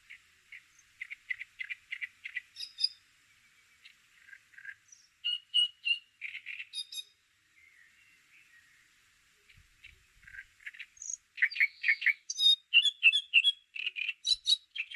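Bird chirping in quick runs of short, high notes, with pauses between the phrases and the loudest run near the end; it cuts off abruptly. No rain is heard.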